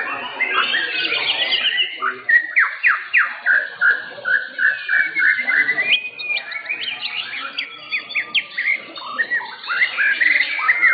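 White-rumped shama (murai batu) singing a varied song: a quick run of about a dozen repeated whistled notes, then long sliding whistles and rapid chips.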